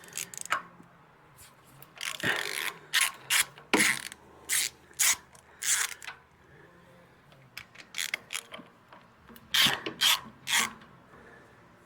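Socket ratchet wrench clicking in short, irregular runs of strokes as a bolt is backed out.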